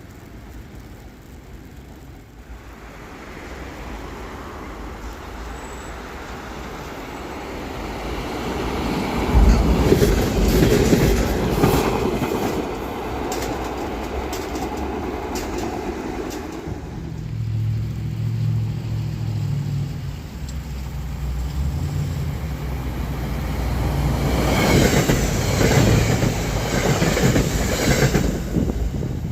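Passenger train passing close by. It builds up over the first few seconds and is loudest from about nine to seventeen seconds, with quick runs of wheel clicks over the rail joints. A steady low hum follows, then a second loud stretch of wheel clatter near the end.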